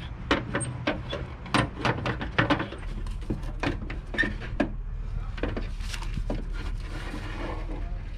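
A quick run of small clicks and knocks as plastic trim parts on a van's sliding door are worked loose by hand. Near the end this gives way to a softer rubbing noise.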